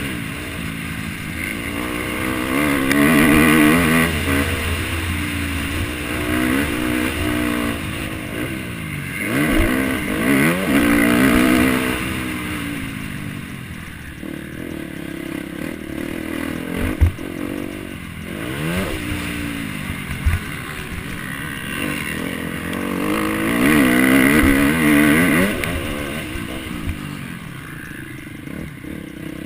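MX1 motocross bike engine revving up and dropping off again and again as it is ridden hard, its pitch climbing and falling with throttle and gear changes. Two sharp knocks come just past halfway.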